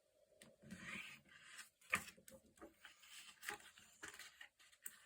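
Faint rustling and crinkling of sticker sheets and paper being handled, with light taps and clicks, the sharpest about two seconds in, as stickers are peeled and pressed onto a journal page.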